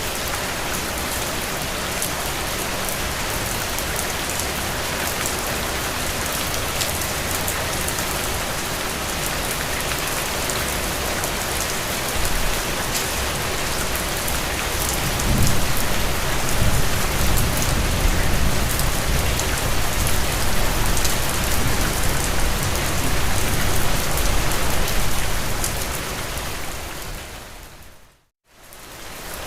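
Steady rain falling. About halfway through, a low rumble builds under the rain and lasts some ten seconds. Near the end the sound fades out to brief silence, then fades back in.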